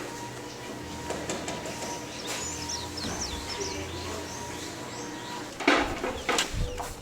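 Small birds chirping in short calls that glide up and down. A faint steady tone runs underneath, and a few loud knocks or thumps come near the end.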